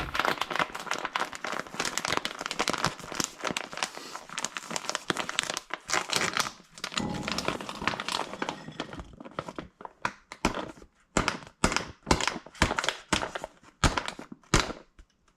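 A plastic microwave rice pouch crinkling as it is handled, with a dense rustle at first and then separate sharp crackles over the last five seconds or so.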